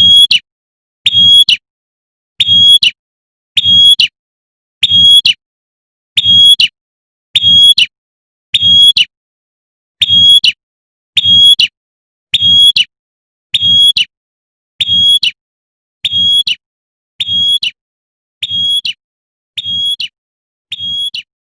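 Prinia (prenjak) giving its sharp, high 'tembakan' call, the female's call to a male, repeated about once every 1.2 seconds and growing fainter toward the end.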